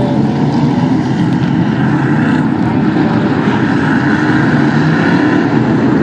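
A field of big-block modified race cars running on the track, their V8 engines blending into one loud, steady drone.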